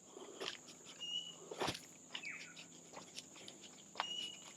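Footsteps on a forest trail, a few separate steps, under a steady high-pitched drone of insects. A bird gives a short high whistle twice, about a second in and again near the end, with a brief falling call between them.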